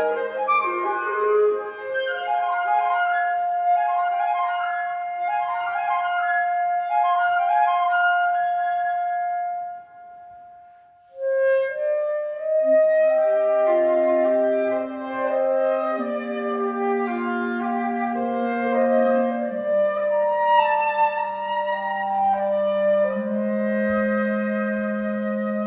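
Flute and two clarinets playing a chamber trio: one instrument holds a long high note while the others play quick running figures above it. After a short pause about ten seconds in, the trio resumes with long low held notes under moving upper lines.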